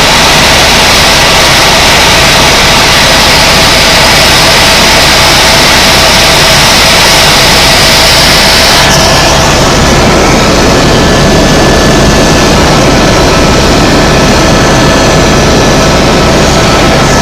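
Helicopter noise heard from inside the cabin in flight: the loud, constant drone of rotor and turbine engine with a faint steady whine. About nine seconds in, the high hiss drops away and the sound turns duller.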